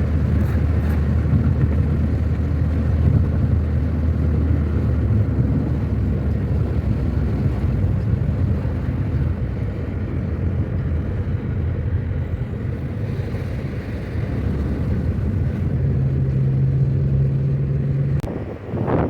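Car driving along a road: a steady engine hum with road and tyre noise, the engine note rising slightly about three seconds before the end.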